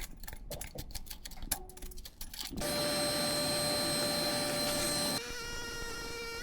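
Small clicks and knocks, then an electric power tool motor starts and runs steadily for about two and a half seconds. It then drops to a quieter, lower whine that sags in pitch as it winds down near the end.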